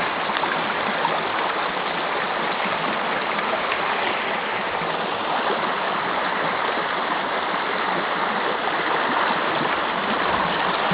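River water rushing steadily under a footbridge as it flows toward the drop of a waterfall, an even, loud rush.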